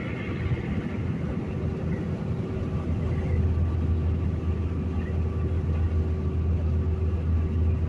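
Semi truck's engine and road noise inside the cab at highway speed: a steady low drone that grows a little stronger about three seconds in.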